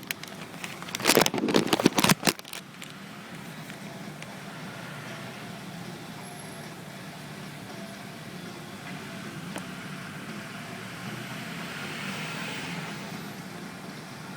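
Car engine idling with a steady low hum. About a second in, a loud burst of clattering lasts a second and a half.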